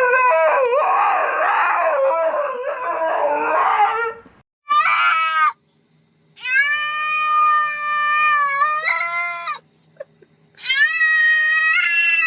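Cat yowling: a loud wavering yowl for about four seconds, then a short meow and two long drawn-out yowls of about three seconds each, with brief silences between.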